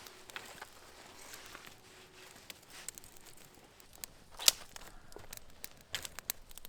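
Small handling sounds: scattered light clicks and rustling, with one sharper click about four and a half seconds in and a few more clicks near the end.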